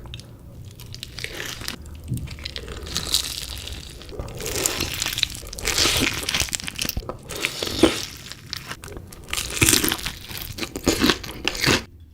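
Close-miked crunching of crispy chicken pieces being bitten and chewed, in repeated loud crackly bursts that cut off suddenly near the end.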